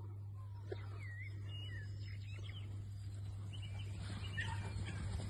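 Birds chirping and calling in short, sliding notes over a steady low hum, with a louder rough rumble about four seconds in.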